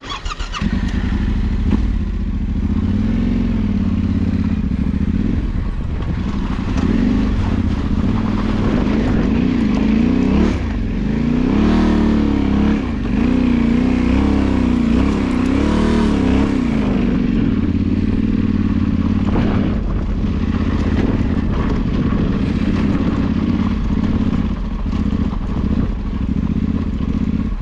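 Off-road motorcycle engine running under load over rough ground, its revs rising and falling again and again, with occasional clattering knocks.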